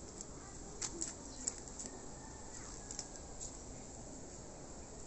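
Faint bird calls over a steady background hiss, with a few short, sharp high ticks.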